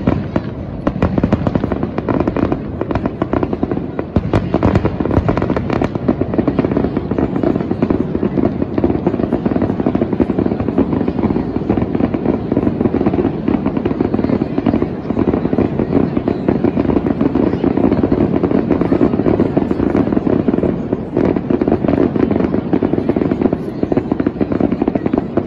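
Fireworks going off in a dense, unbroken barrage of pops and bangs.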